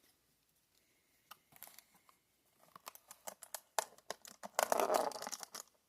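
Packaging of a sealed trading-card booster box being opened: scattered small clicks and rustles, then a stretch of crinkling and tearing in the last second and a half.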